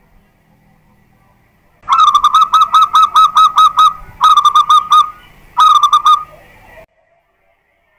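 Zebra dove (perkutut) song: three runs of rapid, evenly spaced cooing notes, the first about two seconds long and two shorter ones after it, then a sudden cut-off near the end.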